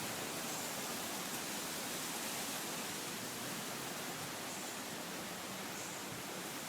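Steady hiss of wind blowing through the trees and foliage, even and unbroken.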